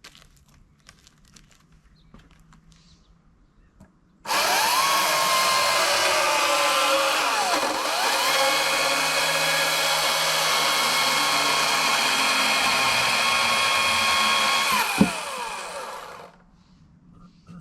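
EGO CS2005 20-inch battery-powered chainsaw. Its electric motor and chain spin up with a rising whine about four seconds in and run steadily, the pitch dipping briefly once along the way. Near the end the trigger is released with a click and the chain winds down.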